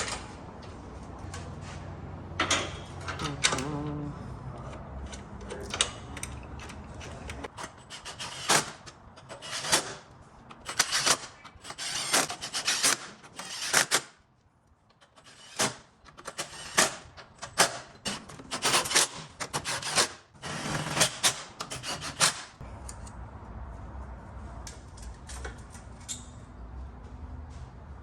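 Repeated short, irregular strokes of shop tool work, rasping or scraping in character, with a brief drop to near silence about halfway through.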